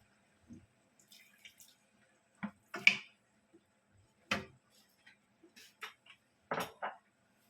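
Water splashing and dripping with small clatters at a kitchen sink: several short, separate sounds, the loudest about three seconds in.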